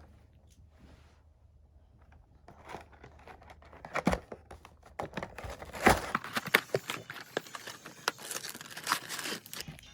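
Plastic snack wrapper crinkling and tearing open, with a few sharp knocks among the rustle. It starts a few seconds in and stops shortly before the end.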